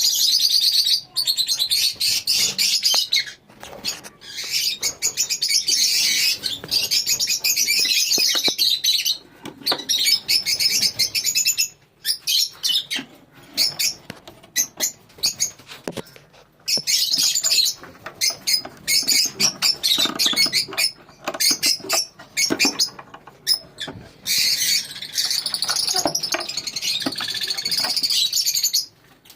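A colony of lovebirds chattering, with dense high-pitched chirps in long stretches broken by short pauses.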